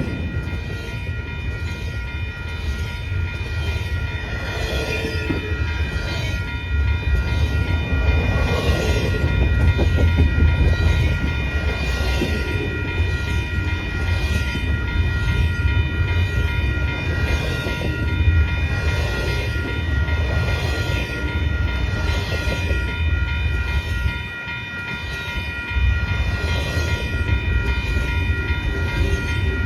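Freight train rolling past: railcar wheels clacking over rail joints in an even rhythm about once a second, over a low rumble, with a faint steady high ringing tone.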